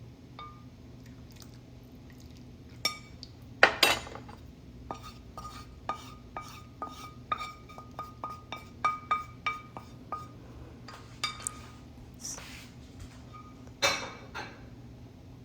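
A metal spoon or ladle stirring in a steel pot of kadhi, clinking against the pot's sides and rim with short ringing clinks, about two a second through the middle, and a few louder knocks near the start and near the end.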